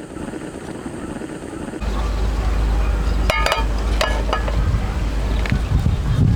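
A steady low rumble that starts suddenly about two seconds in, with a few ringing clinks of metal cookware around the middle.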